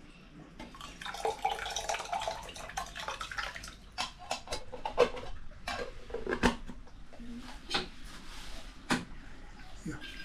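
Clinks and knocks of metal dishes and utensils being handled, with water splashing for the first few seconds.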